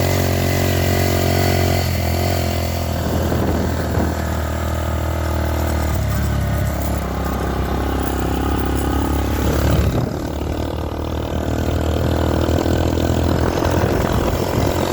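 Honda 50R mini dirt bike's 49cc single-cylinder engine running steadily while being ridden. About ten seconds in, its note drops away as the throttle eases off.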